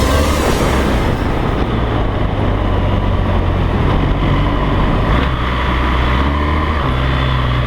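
BMW R 1200 GS LC's liquid-cooled boxer twin engine running as the bike rides along, with steady road and wind noise; the engine note shifts about five seconds in and again near the end.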